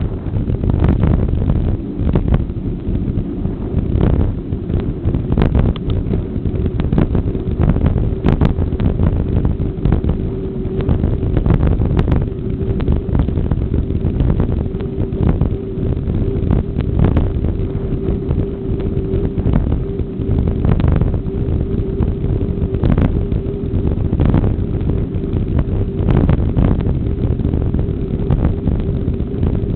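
Wind rushing over the microphone during a ride, with a steady drone underneath and frequent short knocks and rattles.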